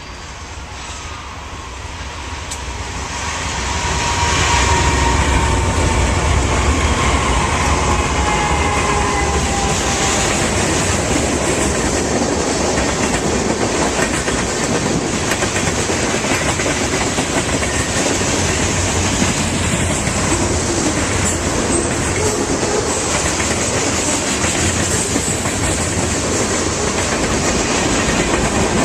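A train passing close by: the sound builds over the first four seconds, then a loud, steady rumble and clatter of wheels on the rails carries on. Faint thin tones fall in pitch early on.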